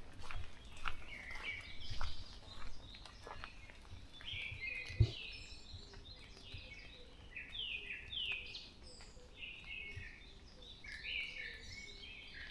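Several songbirds singing, with short chirping and warbling phrases overlapping and repeating. A single sharp knock comes about five seconds in.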